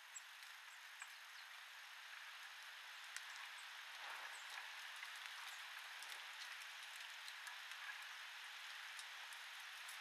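Faint ambience of small birds at a feeder: a steady hiss with scattered light ticks and a few brief, high chirps.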